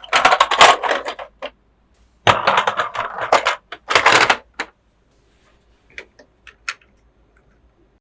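Plastic toy parts and packaging being handled, making two bursts of rattling, crackling clicks, then a few single light clicks near the end.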